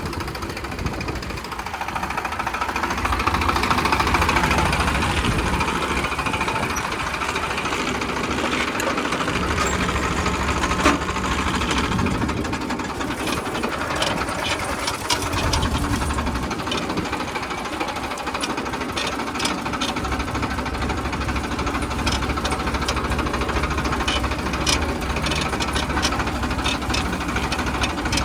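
Tractor diesel engine running steadily as the tractor is driven. From about halfway, a rapid rattle of short clicks joins the engine.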